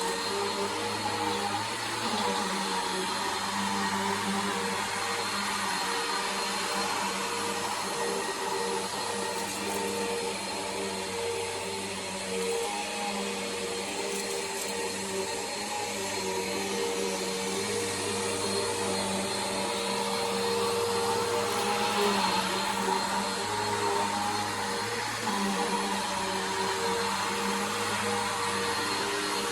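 Bissell Power Force upright vacuum cleaner running steadily: a constant motor hum and whine with slight swells in loudness.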